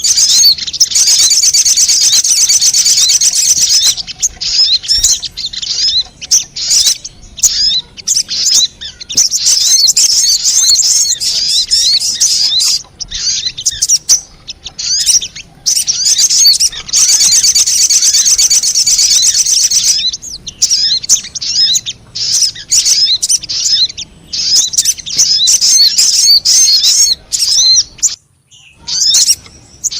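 Sogon (little spiderhunter) calling as a lure recording: loud, rapid, high-pitched chirping in dense stretches of a few seconds, broken by runs of separate sharp chirps.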